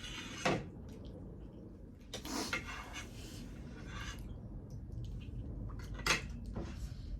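Cutlery clinking and scraping against dishes during a meal. A few short sharp clinks, with a longer scraping stretch about two seconds in.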